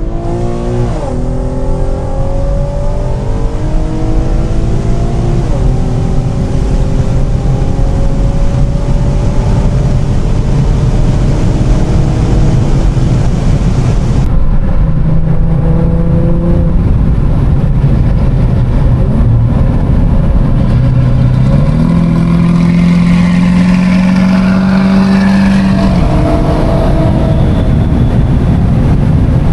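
Infiniti G37's 3.7-litre V6 through an aftermarket exhaust (high-flow cats, Y-pipe, Vibrant resonators, 3.5-inch mid pipe, axle-back), accelerating through the gears. The pitch climbs and drops back at each shift. Later it rises again and holds steady for a few seconds.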